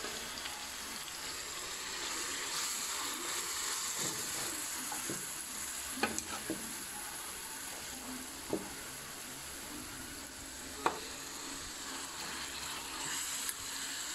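Duck pieces frying with garlic and onion in oil in a metal wok: a steady sizzle. A few short, sharp clinks of a utensil against the wok come through as it is stirred.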